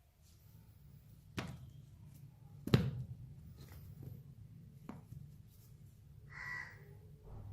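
A few sharp knocks and clicks of a rusty metal tool being handled and set down on a hard surface, the loudest about three seconds in, then a brief squeak near the end over a steady low hum.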